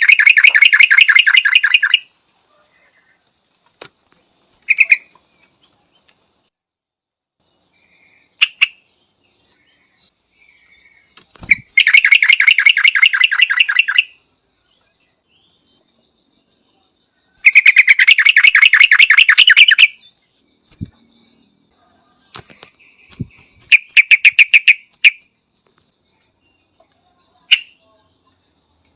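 A yellow-vented bulbul calling: four loud runs of rapid, sharp chattering notes, each lasting about two seconds, with a few short single notes in the pauses between them.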